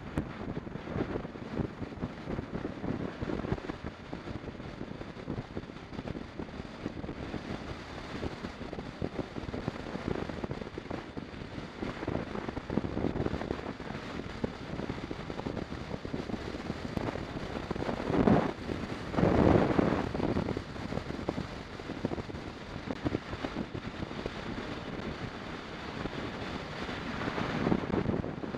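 Wind buffeting the microphone of a camera on a moving motorcycle, a rough, uneven rush with louder gusts about two-thirds of the way through and again near the end.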